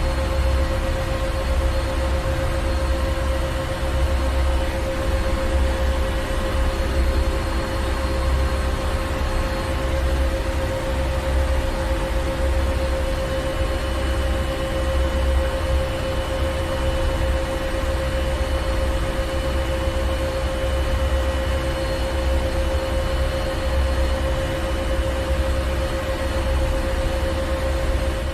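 Ship's engine room with the marine engine machinery running steadily. A deep rumble swells and fades irregularly under a constant mechanical hiss, with a steady hum held throughout.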